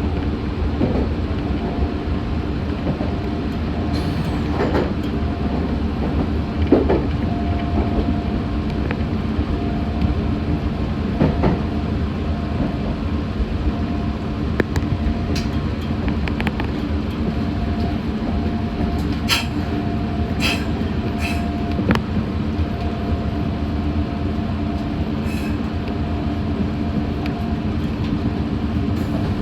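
Meitetsu 6500 series electric train running, heard from inside: a steady low rumble with a faint on-off tone and scattered short clicks and knocks from the wheels on the track.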